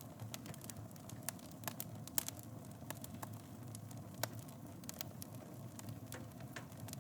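Wood fire burning in a fireplace: irregular sharp crackles and pops over a steady low rumble of flames, with one louder pop about two seconds in.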